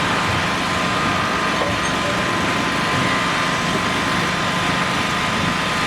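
Steady drone of an engine or machine running, with a constant high whine over it.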